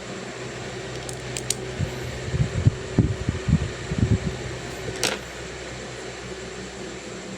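Steady white-noise background with a faint low hum. A cluster of low bumps comes around the middle, and a few short sharp clicks come about a second in and again about five seconds in.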